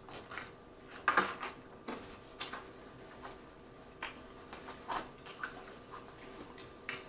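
Close-miked mouth sounds of someone chewing food: scattered short wet clicks and smacks, with a small cluster about a second in.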